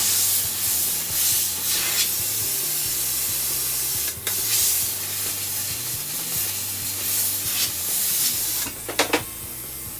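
Jeweler's steam cleaner blasting a silver buckle: a loud hissing jet, briefly interrupted twice, that stops near the end with a couple of clicks.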